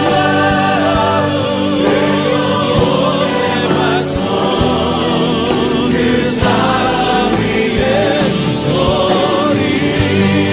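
Christian worship music: a choir singing with vibrato over an instrumental backing.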